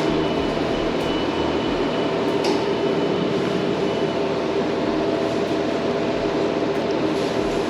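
A steady mechanical hum and whir with several fixed tones, unbroken throughout, and a faint tick or two.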